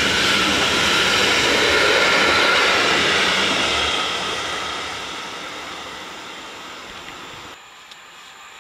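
Freight train of covered hopper wagons rolling past, a steady rushing noise of wheels on rails that fades away after the last wagon goes by about four seconds in, then drops suddenly to a faint hiss near the end.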